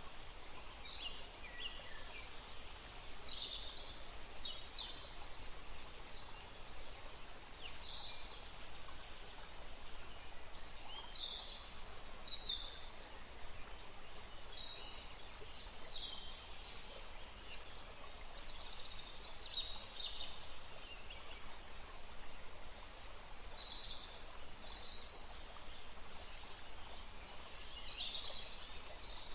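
Several small birds chirping and singing in short, quick phrases, one after another, over a steady rushing background noise.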